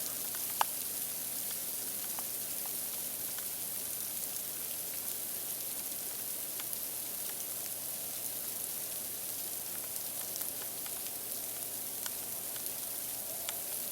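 Light sleet and frozen rain falling: a steady fine hiss with scattered small ticks of ice pellets landing.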